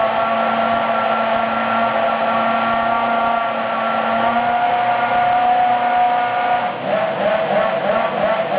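Toyota Formula One V8 engine running at a steady high idle. About seven seconds in, its pitch begins to waver up and down with light throttle blips.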